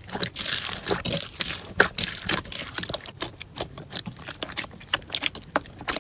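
Slime being squished and worked by hand: a rapid, uneven run of wet, sticky clicks and pops.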